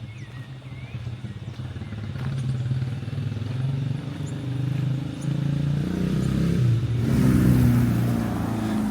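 A motor vehicle engine running on the street and drawing closer, its pitch stepping up and down, loudest about seven to eight seconds in.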